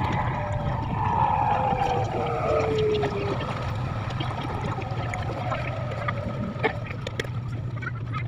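Taiwan High Speed Rail train heard from inside the passenger cabin, slowing into a station: a steady low rumble, with a whine that falls in pitch a second or so in. A few sharp clicks follow later.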